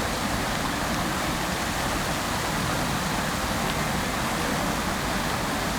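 Fountain water jets splashing down into the basin: a steady, even rushing of falling water.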